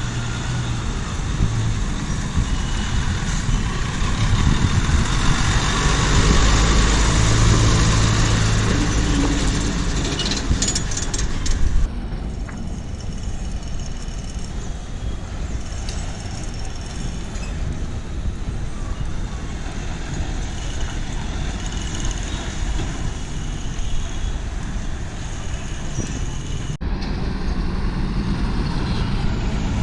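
Heavy vehicle engine running close by, with traffic noise. It is loudest for about the first twelve seconds, then drops abruptly to a quieter mix of engine hum and traffic.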